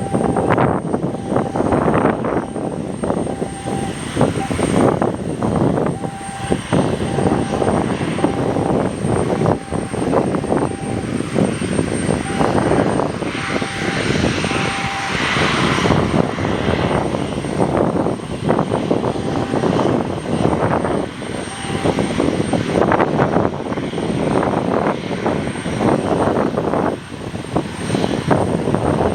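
Aircraft engine running, heard through heavy gusting wind buffeting the microphone.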